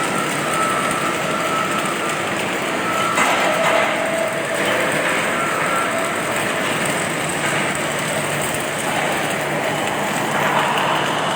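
Automatic welding machine at work: a steady crackling hiss from the welding arc, with faint on-and-off whining tones from the machinery.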